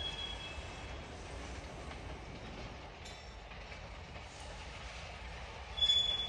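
Freight cars rolling slowly over the rails with a steady low rumble as the train backs up. A loud, high wheel squeal rings out briefly near the end.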